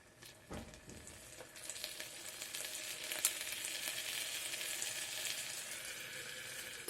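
Chopped vegetables and spices frying in hot oil inside an electric kettle. The sizzle builds up about a second and a half in and holds steady, with a soft knock near the start and a few sharp clicks, then cuts off suddenly at the end.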